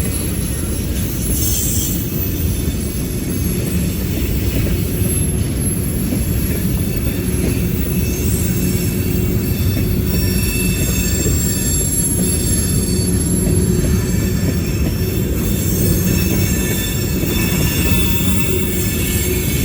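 Train rolling steadily past on the rails, a continuous low rumble with thin, high-pitched wheel squeal coming in from about halfway through.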